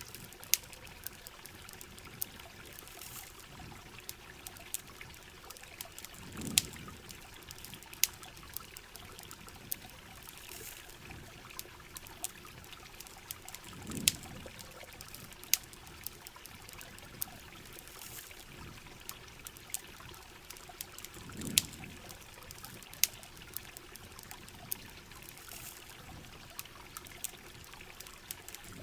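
Rain and campfire ambience: a steady hiss of rain and running water, with sharp crackles and pops from a wood fire scattered throughout. A soft low swell comes back about every seven to eight seconds.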